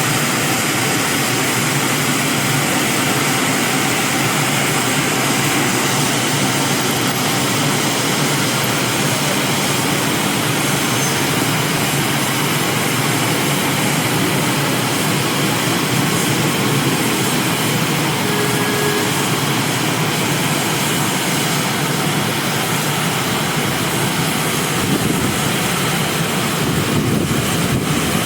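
Gantry reciprocating car wash machine running, a steady loud rushing noise that stays even, with no breaks.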